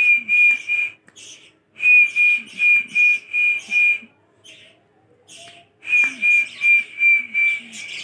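A high whistled note on one steady pitch, repeated about three times a second in three runs of six or seven notes, with short pauses between the runs.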